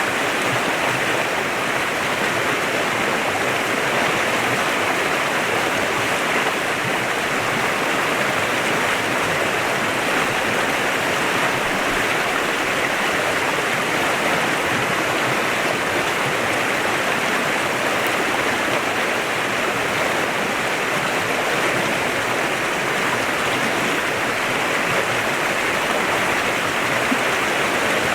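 A clear mountain river flowing and rushing steadily over rocks, an even, unbroken rush of water.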